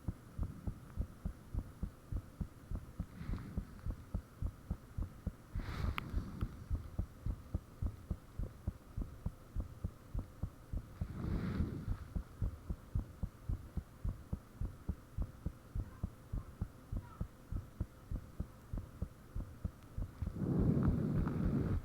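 A human heartbeat recorded close up: a fast, even run of low thuds over a steady hum. A louder rushing noise swells up three times, the loudest near the end.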